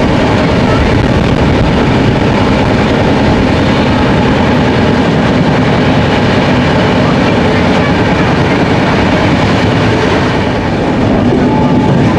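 Passenger train running at speed, heard from the moving coach: a steady, loud rumble with the clatter of wheels over the rail joints.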